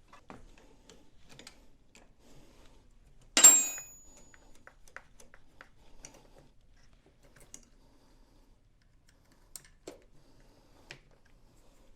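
Scattered light clicks and taps of hand tools and small metal parts being handled. One loud metal clank about three and a half seconds in rings briefly.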